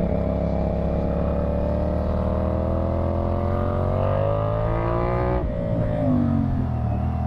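CFMoto 450SR's parallel-twin engine through a slip-on exhaust, accelerating with the revs climbing steadily. About five and a half seconds in the pitch drops suddenly as it shifts up a gear on the quickshifter, and the revs climb again.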